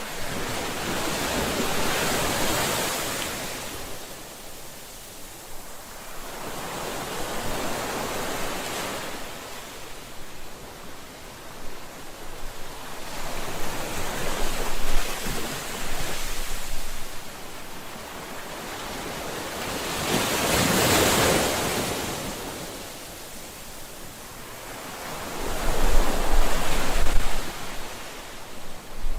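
Ocean surf: waves washing in as slow rushing surges about every six seconds, each swelling and falling away, the last one near the end the loudest, with a low rumble.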